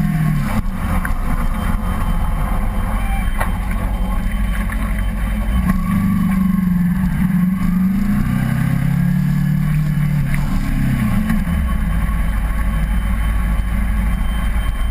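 Kawasaki Ninja 250R's parallel-twin engine on the move, mixed with loud low wind rumble. The engine note falls just after the start, rises again about six seconds in, steps down in pitch around eight seconds, and drops away under the wind rumble after about eleven seconds.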